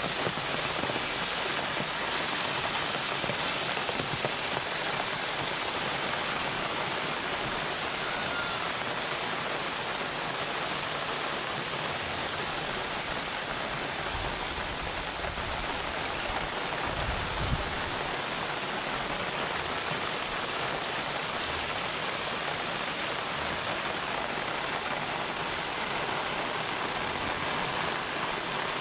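Heavy rain pouring steadily, a dense even hiss of water, with one brief low thump a little past the middle.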